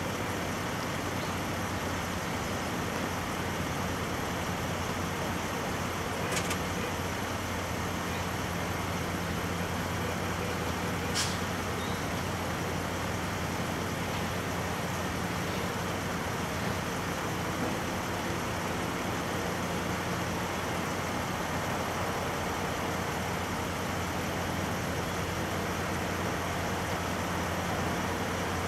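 Steady low hum of an NJ Transit commuter train idling while it stands at the station, mixed with road traffic noise. Two short sharp clicks sound about six and eleven seconds in.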